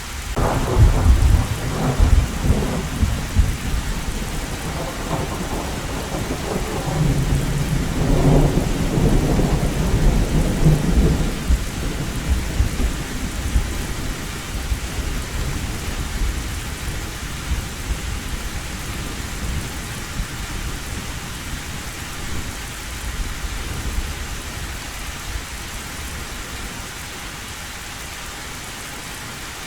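Thunderstorm: a clap of thunder breaks right at the start and rolls on as a low rumble that swells again a few seconds later, then fades away over the second half, over steady heavy rain drumming on an old tin roof.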